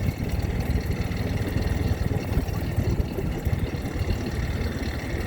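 A vehicle's engine running steadily at low speed, a continuous low rumble heard from aboard the moving vehicle.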